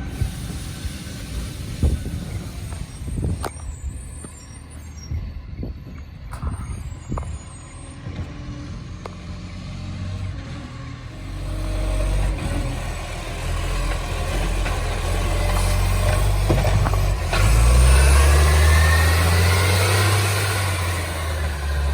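Garbage truck engine with a large exhaust leak: a low rumble with scattered knocks at first, then revving up loudly from about halfway, rising in pitch.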